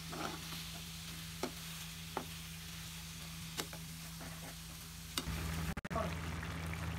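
Diced potatoes and onion-tomato masala sizzling in an aluminium pan as a slotted metal spatula stirs them, with a few sharp clicks of the spatula against the pan. About five seconds in, the sound cuts abruptly to a louder, steady noise of the potatoes simmering in added water.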